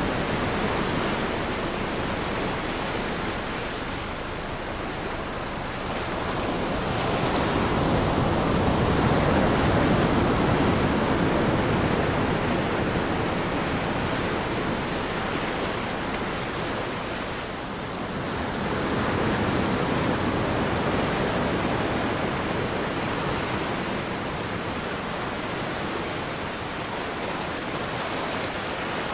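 Ocean surf used as a sleep sound: a continuous rushing wash of breaking waves that slowly swells and eases, with two broad surges about ten seconds apart.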